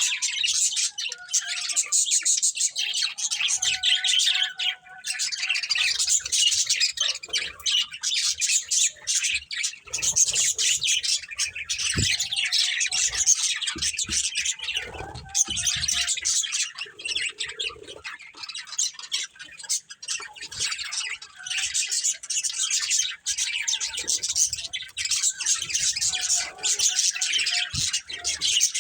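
Budgerigars chirping and chattering continuously, a dense stream of fast high chirps with occasional squawks.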